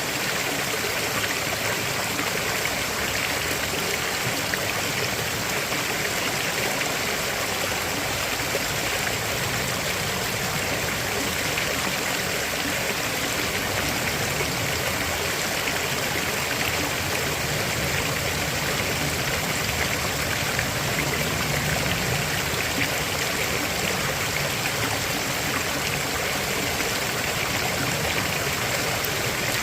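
River water flowing over rocks, a steady, unbroken rushing.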